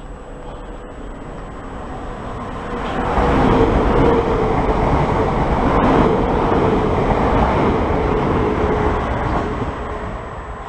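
Electric multiple-unit passenger train running through the station close along the platform. Its rumble swells about three seconds in, holds loud with a steady hum, then fades away near the end.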